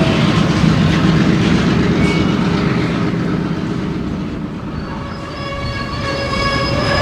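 Freight train moving on rails, a diesel locomotive and rolling cars making a heavy low rumble. About five seconds in, a steady high-pitched squeal sets in: wheel flanges squealing against the rails.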